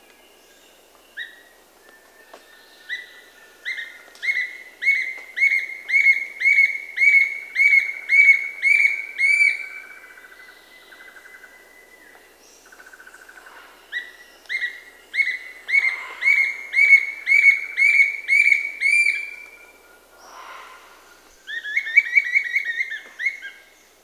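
A bird calling a long series of repeated clear whistled notes, nearly two a second, growing louder through each run; two long runs, then a shorter, faster burst near the end.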